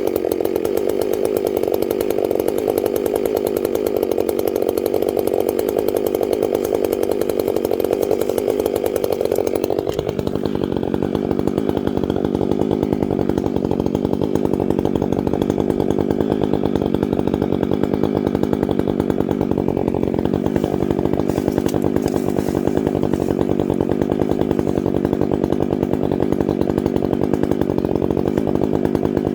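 Stihl MS 661 chainsaw running steadily in a long cut, its note shifting about ten seconds in.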